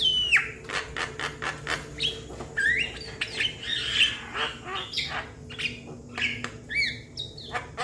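Young Javan myna calling: a quick run of dry clicks and harsh squawks, mixed with short whistled notes that slide down or up in pitch.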